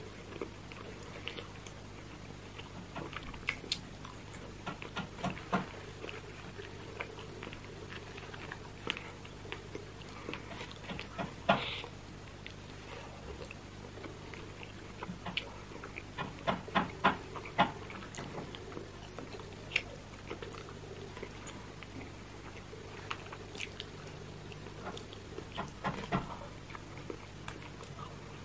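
Close-up chewing and wet mouth smacks of a person eating roast chicken by hand, with scattered sharp clicks. A quick run of smacks comes about two-thirds of the way in, and a low steady hum sits underneath.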